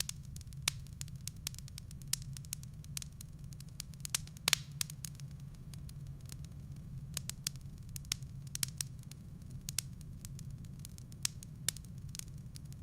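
Wood fire crackling in a fireplace: irregular sharp snaps several times a second, the loudest about four and a half seconds in, over a steady low rumble.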